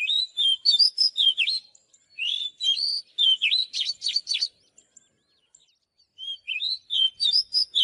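Oriental magpie-robin singing: three phrases of quick, varied whistled notes mixed with short scratchy notes, with brief pauses between them.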